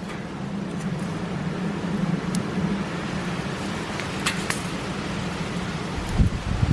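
Wood fire burning in a steamer-basket fire stand, with a few sharp crackles, over a steady low hum. A few low thumps come near the end.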